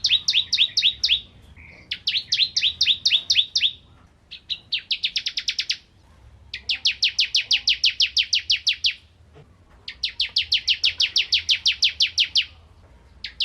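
Ciblek kristal (a prinia) singing: a series of fast trilled phrases of sharp repeated notes, about ten notes a second, each phrase lasting one to two and a half seconds with brief pauses between, the later phrases longer and more rapid.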